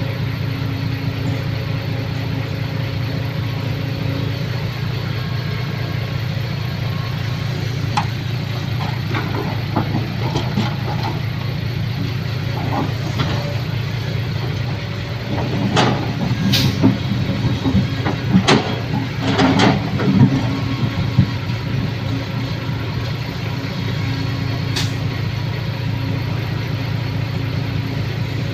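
A motor vehicle's engine running steadily at idle. Irregular knocks and clatters sound over it, heaviest about halfway through.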